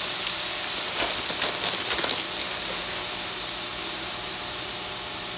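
Frozen cauliflower rice sizzling with a steady hiss in a hot stainless steel skillet of oil, garlic and spices on medium-high heat as it starts to thaw. A few short crackles and clicks come between about one and two seconds in.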